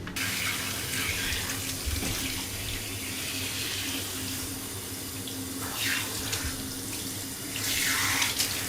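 Bath water running steadily as a kitten is washed, coming on suddenly at the start and swelling louder twice near the end.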